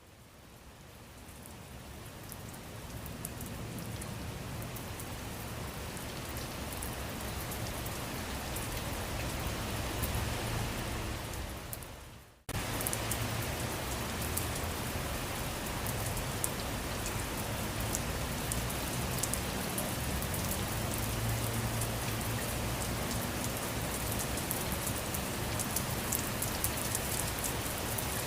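Steady rainfall with the patter of drops, fading in over the first few seconds. About twelve seconds in it fades out and cuts abruptly back in as a steady stretch of rain with sharper, more distinct drop ticks.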